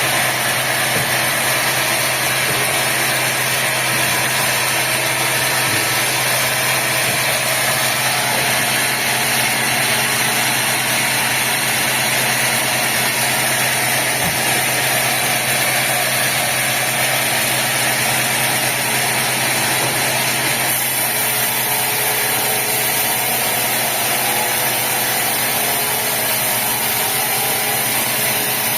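Sawmill machinery running steadily, a constant engine-like hum with a broad hiss over it, slightly brighter in the hiss about two-thirds of the way through.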